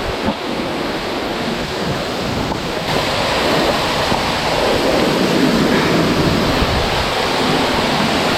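Steady rush of a waterfall, with wind buffeting the microphone.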